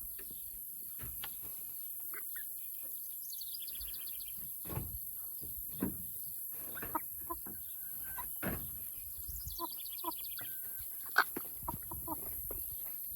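Backyard chickens clucking, a scatter of short calls, one about eleven seconds in louder than the rest. A high, fast trill is heard twice over them.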